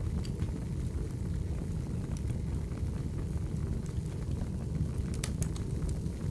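Wood fire burning: a steady low rumble with scattered sharp crackles and pops, including a quick cluster of pops about five seconds in.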